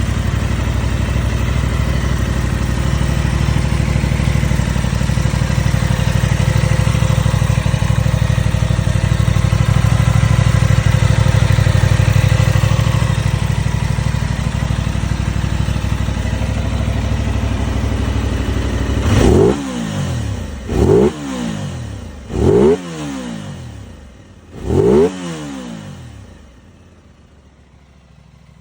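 Aprilia RS660 Factory's parallel-twin engine running steadily, then blipped four times, each rev climbing sharply and falling back, before the sound dies down to a low hush near the end.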